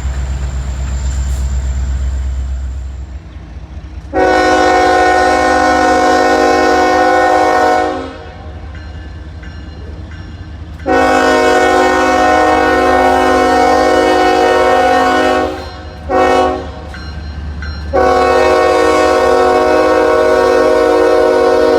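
Locomotive multi-chime air horn sounding the grade-crossing signal: two long blasts, a short one, then a final long blast, warning that the train is approaching a road crossing. A low rumble of the train runs underneath.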